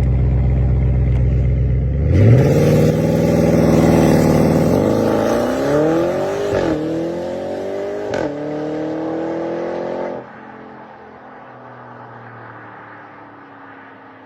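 Audi RS6 engine holding a steady low rumble, then accelerating hard from about two seconds in, its pitch climbing through the gears. Two quick upshifts come near seven and eight seconds, with a short crack at the second. About ten seconds in the sound drops off suddenly to a quieter, fading engine note.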